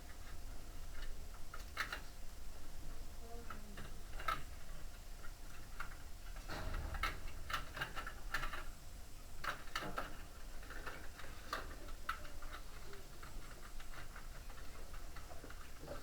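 Irregular light clicks and taps of hand tools and parts being worked while a washing machine's tub is reassembled, bunched more thickly in the middle, over a steady low hum.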